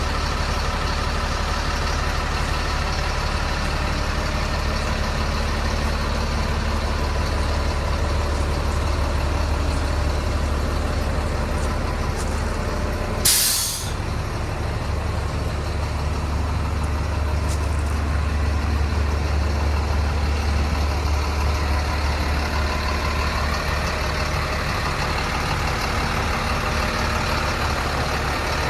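CAT diesel engine of a 1998 GMC 7500 truck idling steadily. About halfway through, a single sharp burst of hissing air, about half a second long, vents from the truck's air system.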